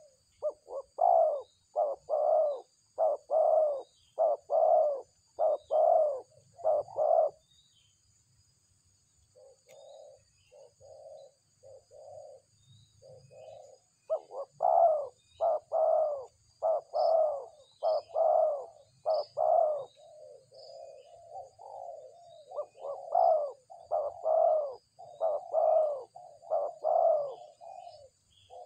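Doves cooing in a long run of loud, closely spaced coos. They stop for about two seconds near the eight-second mark, then start again softly and build back to loud coos. Faint high chirps from small birds sound above them.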